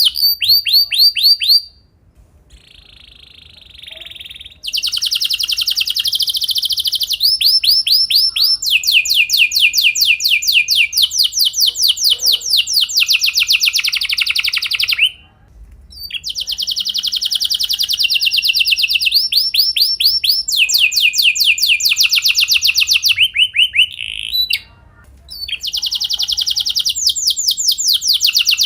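Domestic canary singing long rolling trills: rapid runs of repeated notes, each falling in pitch, strung into long phrases. There are short breaks about two seconds in, around the middle, and shortly before the end.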